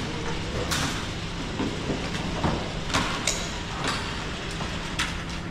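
Gunshots on a shooting range: about five sharp shots at irregular intervals, two of them close together around the three-second mark, over a steady low hum.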